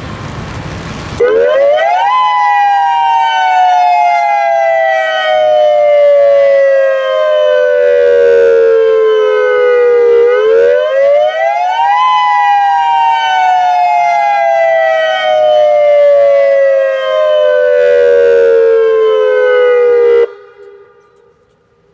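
Federal Signal Modulator 6024B electronic outdoor warning siren sounding the attack (alert) signal on test: starting about a second in, a wail that rises quickly and then falls slowly over about eight seconds, repeated twice, then cuts off suddenly near the end.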